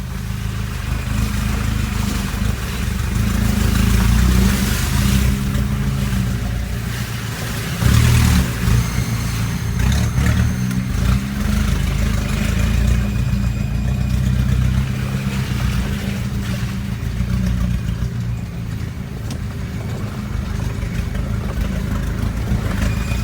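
Troller 4x4's 3.0 turbodiesel engine working under load, its note rising and falling as it revs. There is a sudden loud jolt about eight seconds in, with knocks and rattles on top.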